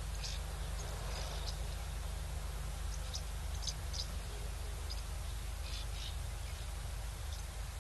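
Outdoor bush ambience: scattered short, high chirps come a few at a time over a steady low hum.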